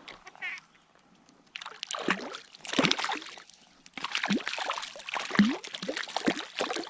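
Irregular water splashing and sloshing, starting about a second and a half in and growing busier: a hooked fish, a splake, thrashing at the surface on a tenkara line.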